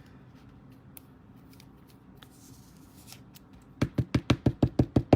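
Hands handling trading cards: faint light rustling, then near the end a quick even run of about ten sharp taps, roughly eight a second, lasting just over a second.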